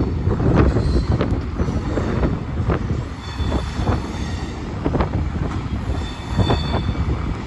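GBRf Class 73 electro-diesel locomotives hauling a test train slowly into a station: a steady low rumble with irregular sharp wheel clicks over the track and a thin, high wheel squeal that comes and goes.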